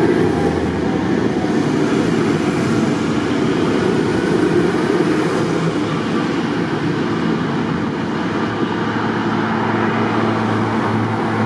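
Tractor engines running with a steady low rumble; a pitched engine note comes in near the end.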